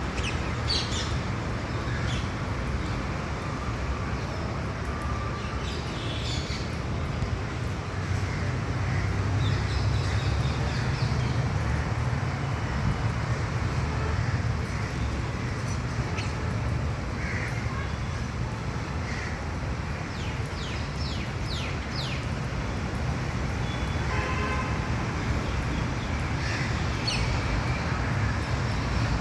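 Parrots giving short scattered squawks and chirps, with a quick run of clicking calls about three-quarters through, over a steady low rumble of traffic.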